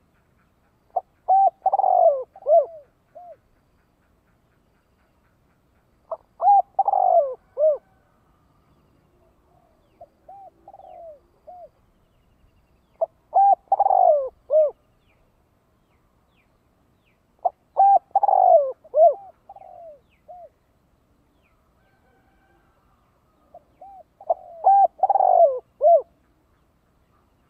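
Spotted dove giving its crowing coo song, the call used to lure wild doves. Five phrases, each about two seconds of several falling coo notes, repeat every five to six seconds, with a few softer coos between.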